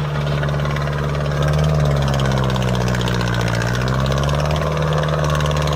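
Tractor diesel engine running steadily and loudly, its pitch sagging slightly for a moment about halfway through.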